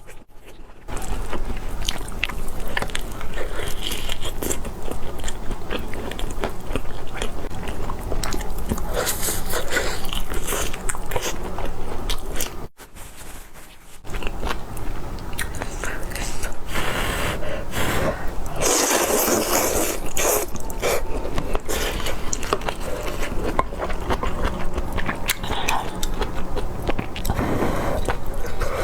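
Close-miked eating: crunchy food being bitten and chewed, with dense crackling crunches. There is a brief pause a little before halfway and a louder run of crunching about two-thirds of the way through.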